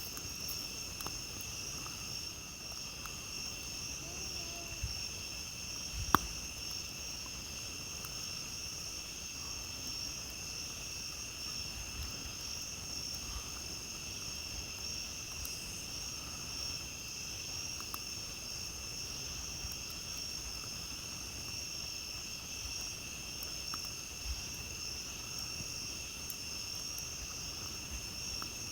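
Steady chorus of crickets and other night insects trilling, over the scattered crackles and pops of a wood campfire, with one sharp loud pop about six seconds in.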